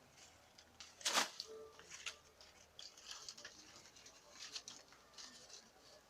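Irregular rustling and crackling, with one louder sharp crackle about a second in.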